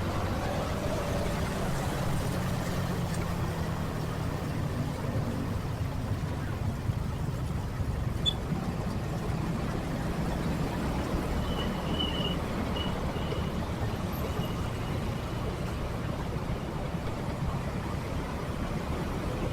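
Motorcycle riding in heavy city traffic: its steady engine and road rumble mixed with the engines of surrounding cars and trucks.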